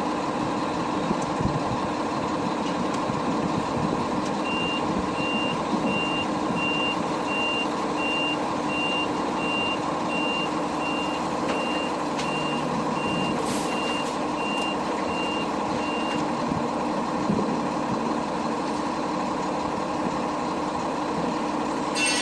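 Truck backup alarm beeping steadily, about once a second, over a running truck engine. The beeping starts about four seconds in and stops some twelve seconds later.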